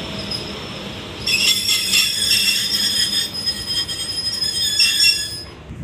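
High-pitched metallic squeal from an electric multiple unit at a platform, starting about a second in and stopping suddenly near the end, over a steady background rumble.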